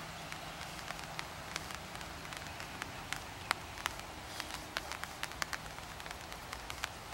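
Rain falling on wetland water and leaves: an even hiss with many sharp, irregular ticks of drops landing close by.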